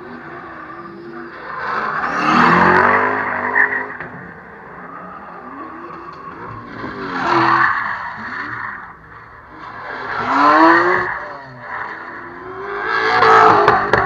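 Drift cars passing one after another, engines revving with pitch rising and falling and tyres squealing as they slide. Four loud passes come a few seconds apart.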